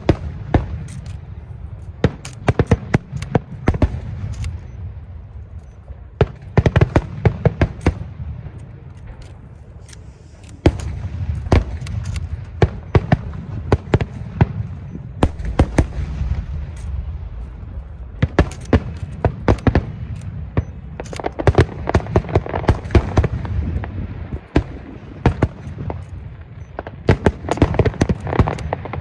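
Fireworks display: shells bursting in dense volleys of sharp cracks and crackles, clustered every few seconds, over a steady low rumble.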